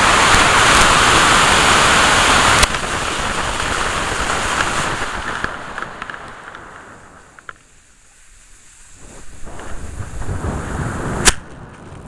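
Onboard audio from a three-stage model rocket in flight: a loud rush of motor thrust and air over the side-mounted camera that cuts off sharply about two and a half seconds in, then fading wind noise to near quiet. The wind builds again and a single sharp pop comes near the end, fitting the C6-7 upper stage's ejection charge firing after its delay, followed by lighter wind on the microphone.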